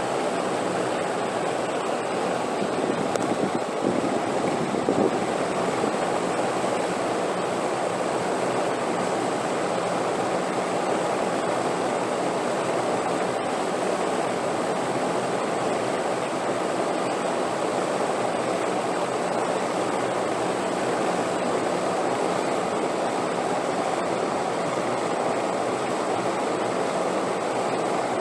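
Wind blowing steadily: an even, unbroken rushing noise.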